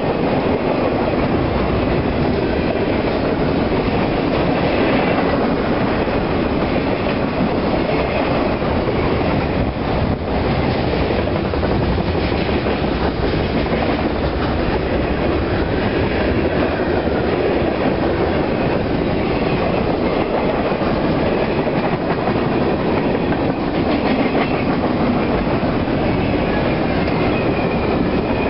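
Union Pacific manifest freight train's cars rolling past close by: a loud, steady rumble of steel wheels on the rails with clickety-clack.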